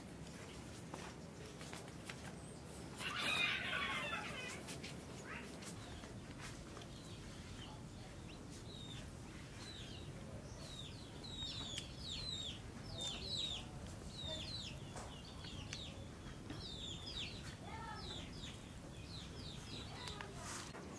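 Birds calling in the background. About three seconds in there is one harsh, scratchy squawk, and from about ten seconds on comes a long run of short, high chirps, each falling in pitch, over a steady low hum.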